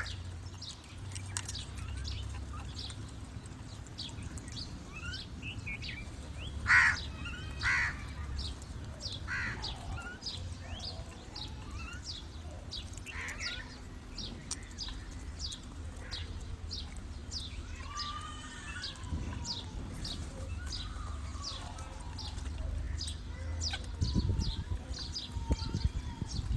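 Crows and other birds calling: a steady run of short, high chirps, with two louder calls about seven and eight seconds in, over a low rumble.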